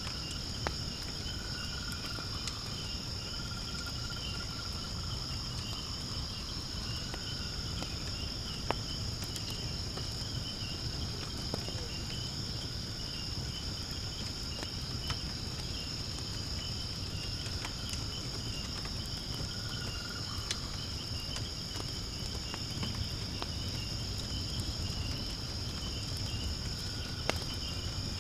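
A steady, high-pitched chorus of crickets and other insects. Occasional sharp crackles from firewood burning in a fire pit sound over it, with a low steady rumble underneath.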